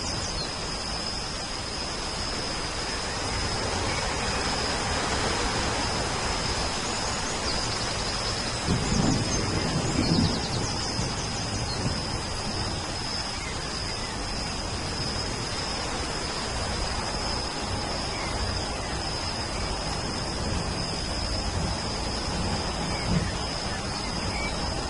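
Steady rain, with a brief low rumble about nine seconds in. A thin, steady high tone runs beneath it, and a few faint bird chirps come near the start and again around the middle.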